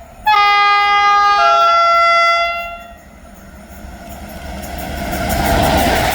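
A train horn sounds a loud two-tone blast for about two seconds, with a second tone joining partway. It is followed by an approaching train whose running noise swells, loudest near the end.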